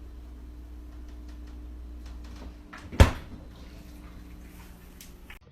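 A steady low hum, then one sharp knock about three seconds in, followed by a few light clicks.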